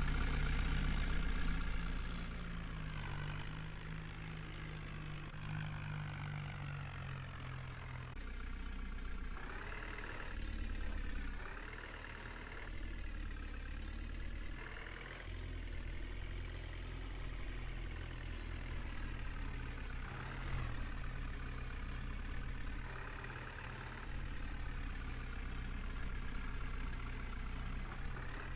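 Diesel engine of a JCB backhoe loader running, its pitch rising and falling several times as it revs up and down.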